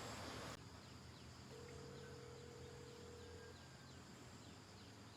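Faint phone ringback tone: one steady tone lasting about two seconds, over near-silent outdoor background with faint high chirps. A louder hiss cuts off suddenly about half a second in.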